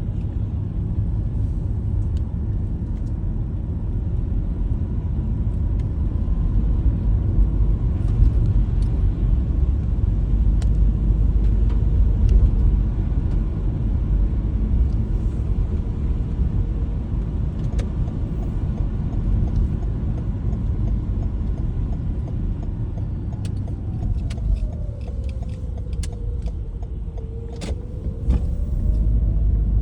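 Car driving on a wet road at about 80 km/h: a steady low rumble of tyres and engine, with scattered light taps of rain. Near the end a faint whine falls and then rises again.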